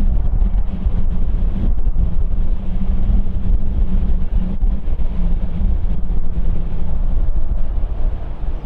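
Wind buffeting an outdoor microphone: a heavy, jittery low rumble with a faint steady hum under it.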